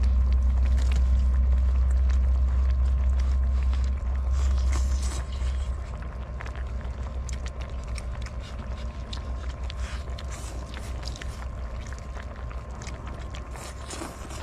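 Wind buffeting the microphone: a deep rumble that eases about five seconds in, with scattered sharp clicks throughout.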